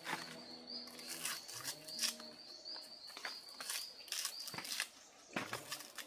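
Birds calling: a fast run of short high chirps at one pitch, about four a second, mixed with lower pitched calls, over scattered knocks and clicks.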